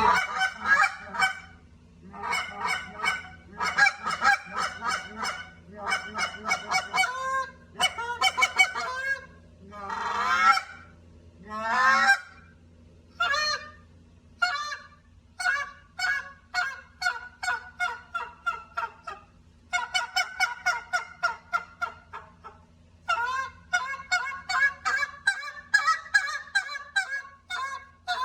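Foiles Market Hunter goose call blown by hand, freshly adjusted: bursts of honks and quick clucks, with a few longer drawn-out notes about ten to twelve seconds in, then runs of rapid clucking.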